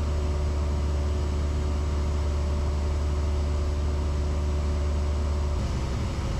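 Cessna 172's four-cylinder piston engine and propeller droning steadily in flight, heard from inside the cabin. The drone's tone changes slightly shortly before the end.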